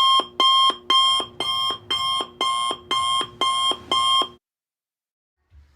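Alarm clock ringing: about nine evenly spaced rings at roughly two a second, which stop suddenly near the end.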